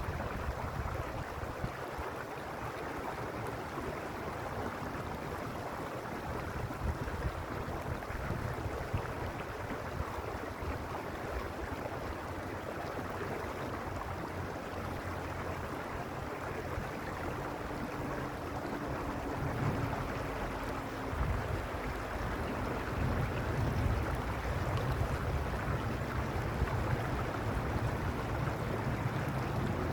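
Creek water flowing in a steady rush, with low rumbling gusts of wind on the microphone now and then.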